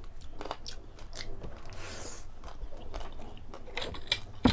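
Close-miked chewing of a mouthful of lechon kawali, crispy deep-fried pork belly, with scattered small crunching clicks.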